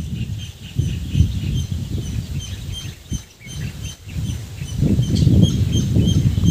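A bird chirping in a quick, steady series of short high chirps, about three a second, over louder low rustling and handling noise close to the microphone.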